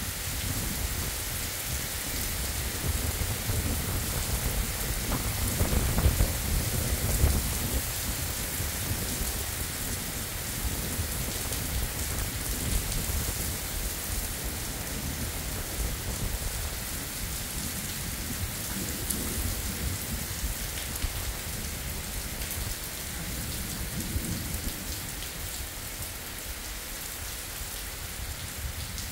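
Heavy rain pouring down onto an asphalt road, a steady hiss of drops hitting wet pavement. A low thunder rumble rolls in about three seconds in and is loudest around six to seven seconds, with fainter low rumbles later.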